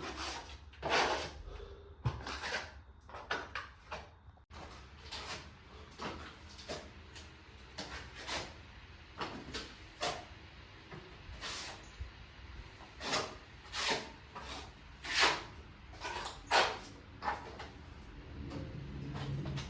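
A string of irregular knocks and clatters, about one a second at uneven spacing, like things being handled, set down or shut.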